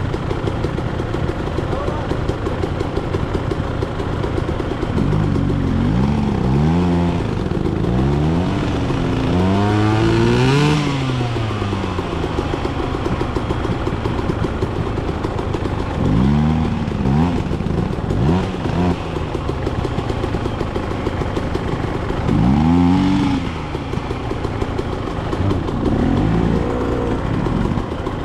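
Dirt bike engine running under a steady rumble, revving up and falling back again and again as the throttle is worked.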